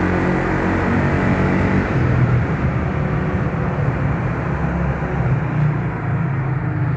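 A motor vehicle engine running, a steady low rumble that grows stronger about two seconds in.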